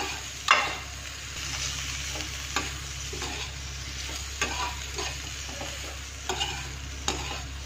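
Potato and cauliflower pieces sizzling steadily as they fry in a little oil in a metal kadhai, while a spatula stirs them, scraping the pan in strokes every second or two. The loudest scrape is about half a second in.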